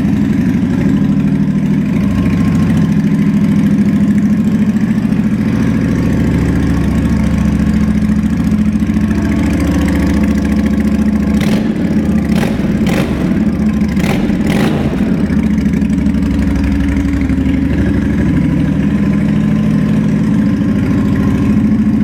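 2007 Honda VT750 Shadow Spirit's V-twin engine running steadily through aftermarket Cobra exhaust pipes. A few sharp clicks come a little past halfway.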